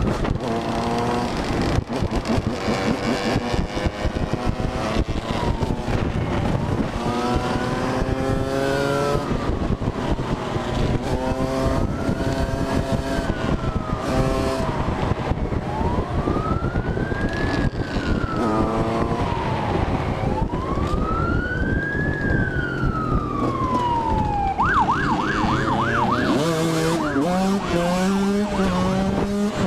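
Emergency vehicle siren wailing, its pitch slowly rising and falling every few seconds, then switching to a fast yelp about 25 seconds in, over steady road and wind noise.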